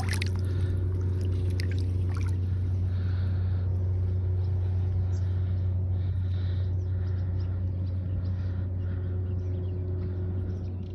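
Boat engine droning steadily at a low, even pitch, with a faint higher tone over it.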